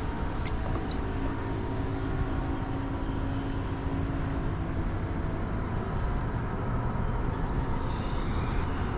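Steady low drone of engines, with two sharp clicks about half a second and one second in.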